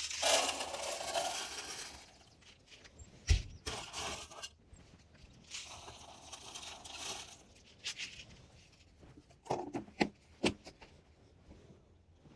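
Poultry grit poured into a container in two pours of about two seconds each, with a sharp knock between them and a few knocks near the end.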